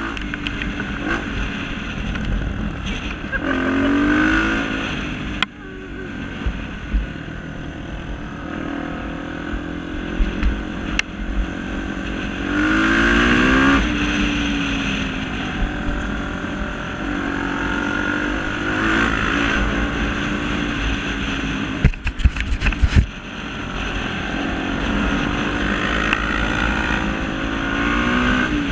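Single-cylinder trail motorcycle engines (Honda Tornado) running through mud, with the revs rising sharply about four seconds in, again around the middle, and near the end. A short rough crackling burst comes about three quarters of the way through.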